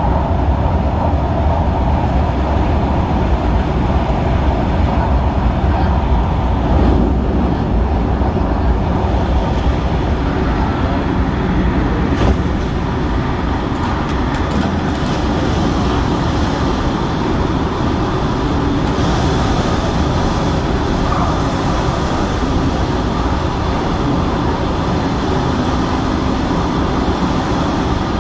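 MTR Tung Chung line CAF-built train running, a steady rumble of wheels on rail heard from inside the car, with one short click about twelve seconds in.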